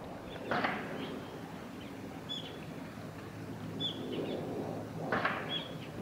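Short, high bird chirps, about six, spaced out over several seconds, over a steady low hum. There are two brief noisy rushes, one about half a second in and one about five seconds in.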